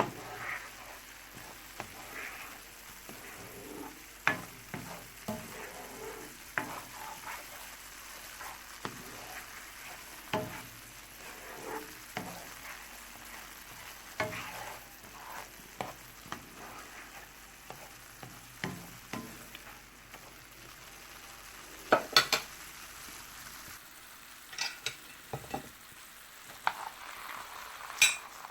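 Food sizzling in a pan while it is stirred, with frequent light taps and scrapes of the utensil against the pan and a few louder knocks near the end.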